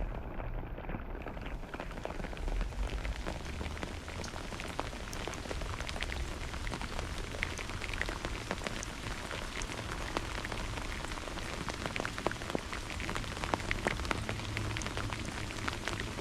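Steady rain falling, with many individual drops ticking sharply close to the microphone, over a low rumble that grows a little stronger near the end.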